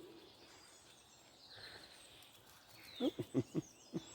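Faint birds chirping in woodland. About three seconds in, a quick run of about five short, low thumps.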